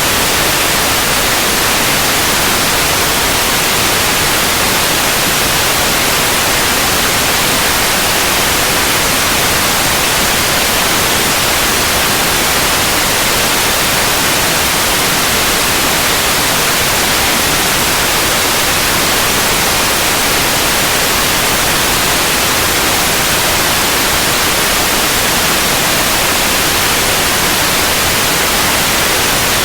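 Steady, loud white noise: an even hiss across the whole range, brightest in the upper frequencies, with no change in level.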